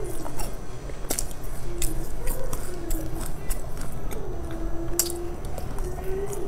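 Crunchy chewing of a sesame-coated fried ball: a run of sharp, irregular crunches, over background music with a slow wavering melody.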